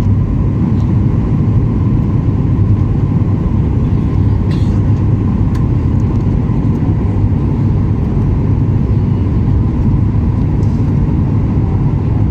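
Airliner jet engines and cabin noise heard from inside the passenger cabin of a Ryanair Boeing 737: a steady, loud low rumble with a thin steady engine whine above it.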